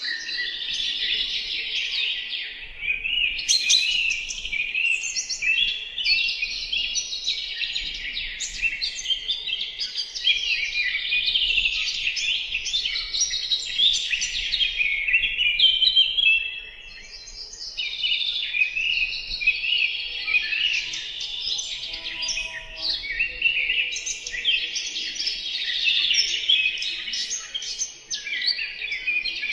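A dense chorus of many birds chirping and calling at once, continuous and busy, easing off briefly about halfway through before picking up again.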